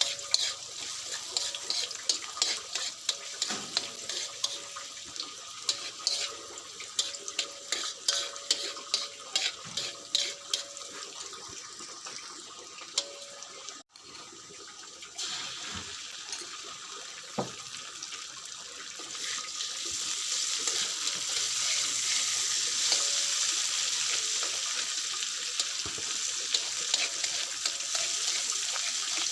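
Running water with quick clattering and clicking as fern shoots are handled in a sink. After a cut, a steady rushing hiss grows louder about two-thirds of the way through.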